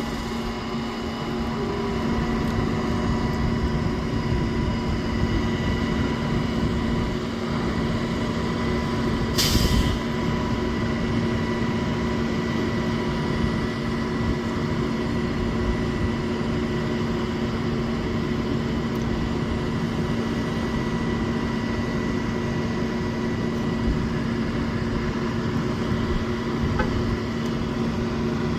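A crane's engine running steadily under load with a constant hum, and a brief burst of hiss about nine seconds in.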